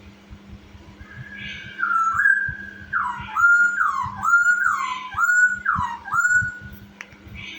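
Chinese hwamei singing loud whistled notes: a held whistle about a second in, then a run of about five swooping notes that dip and rise again, ending shortly before the end. A steady low hum runs underneath.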